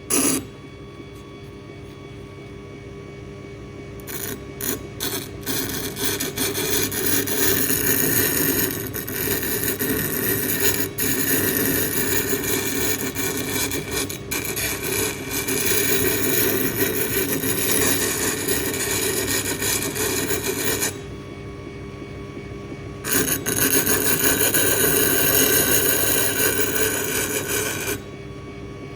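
Steel knife blank, cut from a circular saw blade, being shaped against an abrasive: a continuous rasping scrape over a steady low hum. The scrape starts about four seconds in, breaks off for about two seconds a little over two-thirds of the way through, resumes, and stops shortly before the end.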